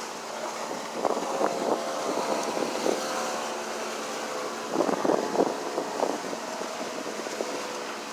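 Boat motor running steadily in choppy water, with water splashing against the hull now and then and wind on the microphone.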